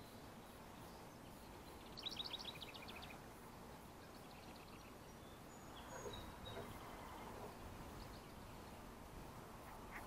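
Faint outdoor ambience with songbirds calling. About two seconds in comes a quick run of high, rapid notes, followed later by fainter scattered high calls.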